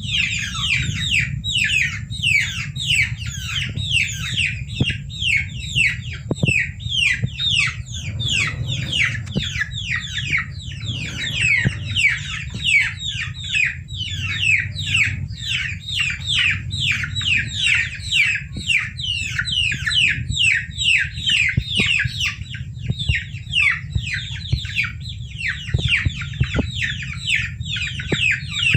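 A group of baby chicks peeping nonstop: short high peeps that fall in pitch, several a second and overlapping one another, over a low steady hum.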